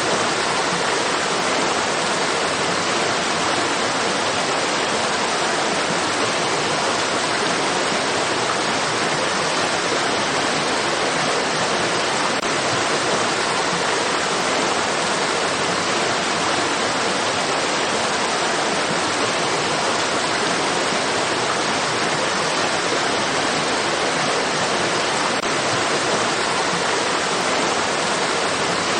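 Flowing water rushing steadily, like a stream or small waterfall: an even, unchanging hiss with no separate splashes.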